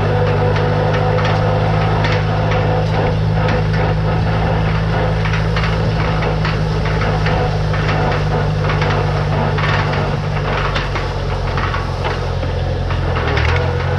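Tractor engine running steadily while pulling a hay rake, with a dense, irregular clatter of knocks and rattles over it. The engine note shifts slightly near the end.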